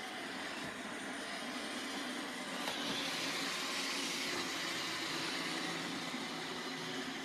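iRobot Roomba 780 robot vacuum running, a steady whir of its motor and brushes that grows a little louder for a couple of seconds in the middle.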